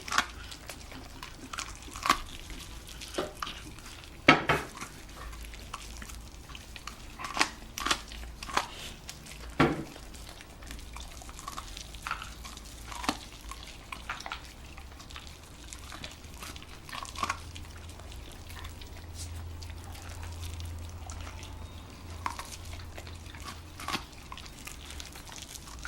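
Scottish terrier gnawing on a corncob: irregular crunches and clicks of teeth on the cob, with a couple of louder crunches about four and ten seconds in.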